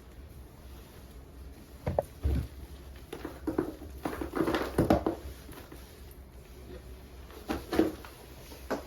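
A run of irregular knocks and light clattering, as of objects being handled and set down, busiest around the middle.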